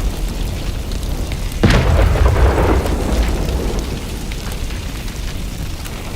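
A small pyrotechnic charge going off with a sudden bang about a second and a half in, followed by a low rumble that dies away over the next few seconds; the rumble of an earlier blast is still fading at the start.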